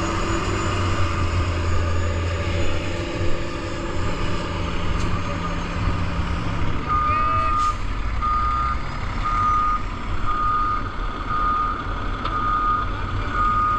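Gravel truck's engine running steadily; about halfway through, its reversing alarm starts beeping at an even pace, a bit more than one beep a second, as the truck backs up.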